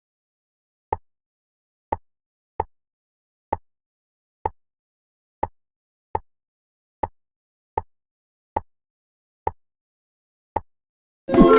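Jigsaw puzzle pieces snapping into place: about a dozen short, alike clicks, roughly one a second, with silence between them. Near the end a bright, ringing chime begins.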